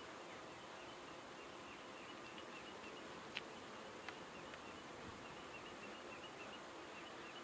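Honeybees buzzing faintly around an open Langstroth hive that has been disturbed. Two light clicks come a little before and just after the middle.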